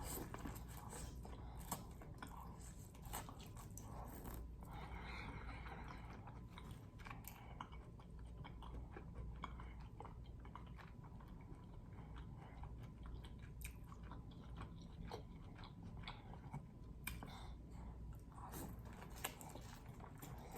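A person chewing and biting seafood in sauce, with many short, irregular crunches and mouth clicks.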